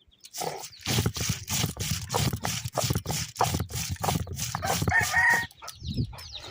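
A chicken calls once, briefly, about five seconds in, over a steady run of knocks and rustling.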